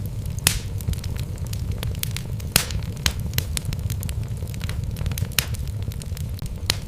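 Wood logs burning in a fireplace, crackling with frequent sharp pops over a steady low rumble of the flames; the loudest pops come about half a second in and about two and a half seconds in.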